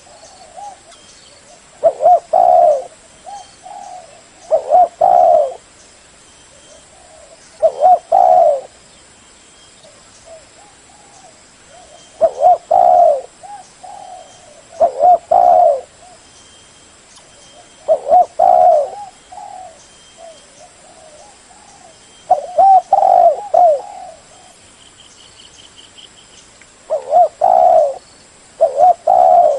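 Spotted dove cooing: loud, short coo phrases repeated every three to five seconds, with softer coos in the gaps.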